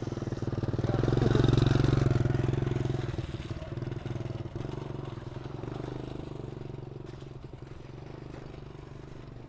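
Small motorcycle engine passing by, growing louder over the first couple of seconds and then slowly fading away.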